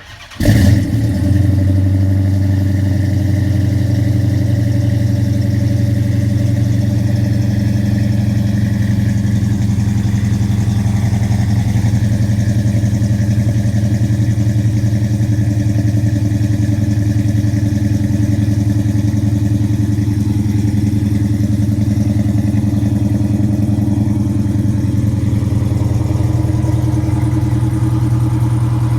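A V8-swapped Dodge Charger's Hemi V8, breathing through catless headers and a Flowmaster exhaust, starts about half a second in with a short loud flare. It then idles steadily and loudly.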